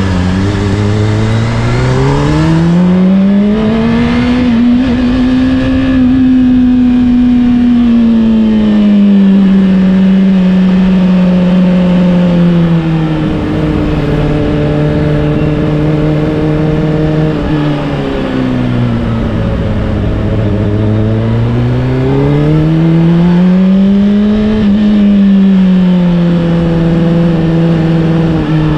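Honda CBR600RR's inline-four engine through an Akrapovic exhaust, ridden on the road: revs climb under acceleration in the first few seconds, then ease back to a steady cruise. The pitch drops sharply about eighteen seconds in, rises again under throttle a few seconds later, and settles.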